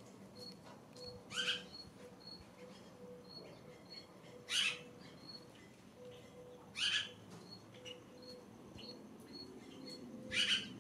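Wild birds calling: four loud, short, harsh calls a few seconds apart, over a faint, even run of short high peeps about twice a second.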